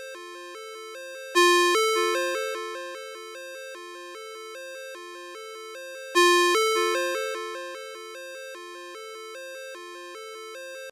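Electronic ringtone: a quick repeating pattern of three tones, with a louder bell-like note struck twice, about five seconds apart, each fading away over a couple of seconds. It cuts off suddenly near the end.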